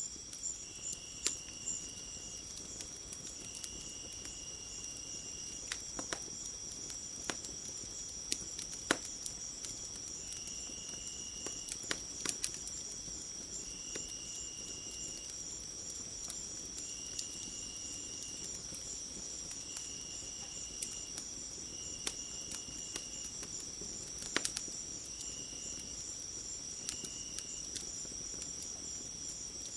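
Crickets trill steadily in a fast pulsing chirr. A second, lower insect trill of about a second repeats every couple of seconds. Sharp crackles and pops from a wood fire are scattered throughout.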